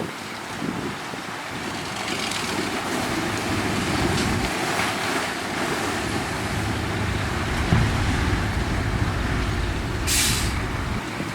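Ten-wheel dump truck's diesel engine running with a low rumble that grows heavier partway through. Near the end comes a short burst of air-brake hiss.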